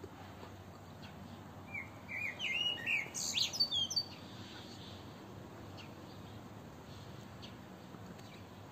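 A songbird giving a quick run of short, high chirps for about two seconds, starting a couple of seconds in, over a faint steady outdoor hiss.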